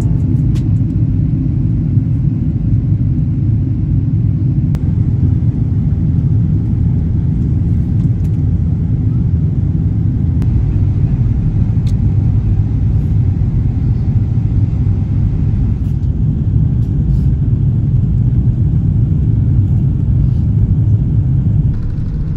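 Steady, loud low rumble of a vehicle in motion, with a few faint clicks; it eases slightly near the end.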